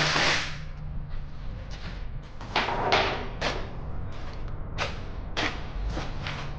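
Shop work noise: a loud noisy rush that ends just after the start, then a run of short, separate knocks and clatters, over a steady low hum.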